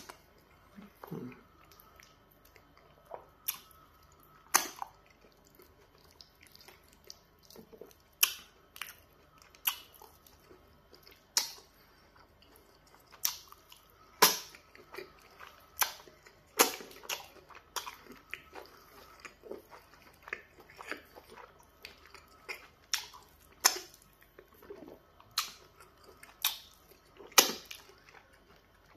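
Close-miked chewing and wet mouth sounds of someone eating soft pounded yam fufu with soup by hand: irregular sharp smacks and squelches every second or two.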